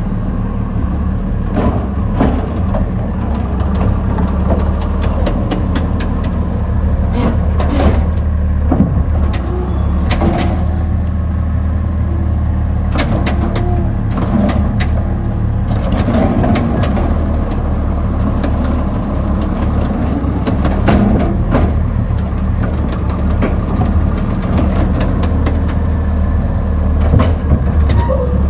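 Garbage truck engine running steadily, with scattered clanks and rattles throughout.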